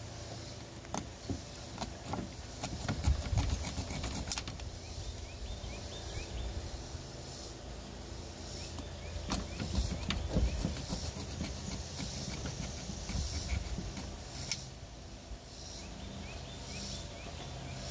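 Small scrapes and scattered clicks of a thin points file worked between the breaker-point contacts of a Stihl 028 chainsaw's ignition, cleaning them to cure a weak, intermittent spark. Soft low rumbles come and go underneath.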